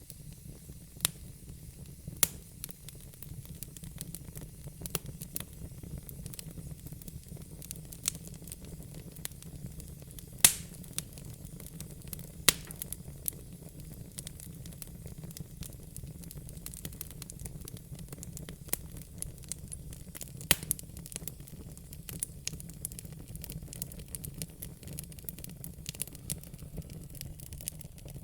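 Wood fire crackling: irregular sharp pops and snaps over a steady low rumble and hiss, with two louder pops about ten and twelve seconds in.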